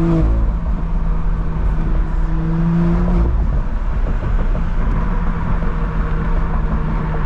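BMW M340i's B58 turbocharged inline-six under way, heard from inside the cabin with the rear windows down. The engine note climbs slightly for about three seconds and then drops away, over a steady road rumble.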